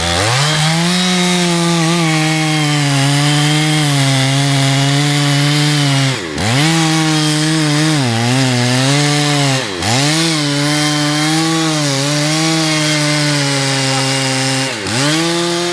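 Two-stroke chainsaw running at high revs, cutting wood. Its engine speed dips sharply and picks back up several times as the chain loads and clears.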